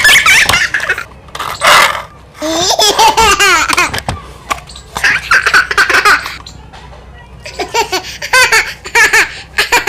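A young child laughing and squealing in several separate high-pitched bursts.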